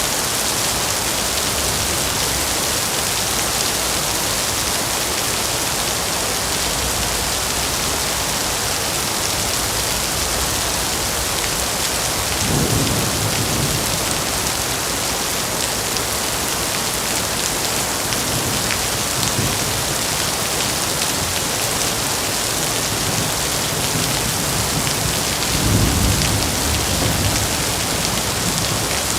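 Heavy rain falling steadily, a dense even hiss of drops on surfaces. Twice, about halfway through and near the end, a brief low rumble rises under the rain.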